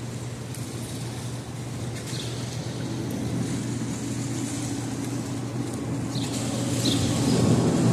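Steady city traffic rumble with a low hum, building louder over the last few seconds, with a few short high chirps over it.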